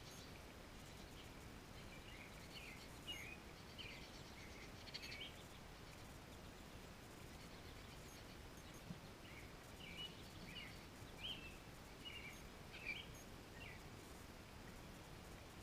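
Faint, short bird chirps in two scattered runs, one in the first few seconds and another from about ten seconds in, over a quiet steady outdoor hum.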